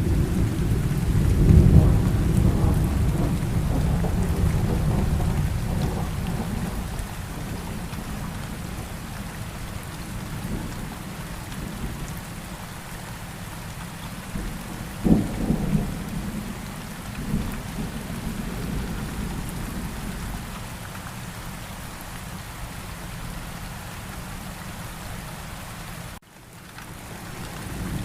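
Steady rain with rolling thunder. The thunder rumble is heaviest for the first few seconds, and a sharper crack of thunder comes about halfway. The sound drops out briefly near the end.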